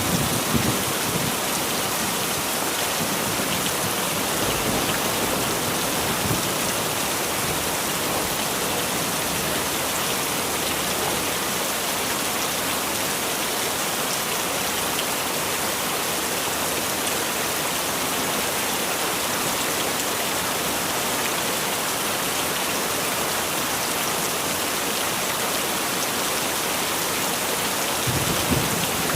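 Heavy rain falling steadily, an even hiss, with low rumbles near the start and again near the end.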